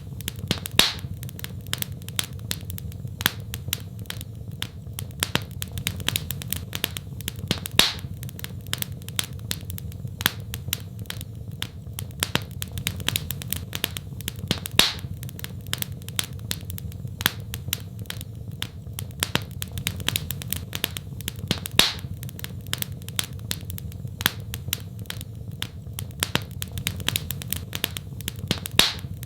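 Wood fire crackling: a dense stream of small ticks and snaps, with a louder sharp pop about every seven seconds, over a steady low hum.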